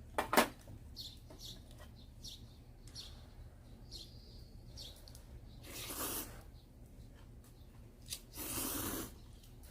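People starting to eat hot ramen: a sharp click near the start, then two noisy rushes of sound about six and eight and a half seconds in, with faint short bird chirps repeating throughout.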